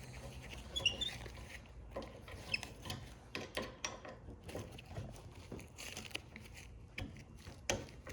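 Scattered light clicks and taps of metal parts and tools being handled while a screw and its inside bolt are worked loose on a printer frame, with a couple of brief faint high squeaks early on.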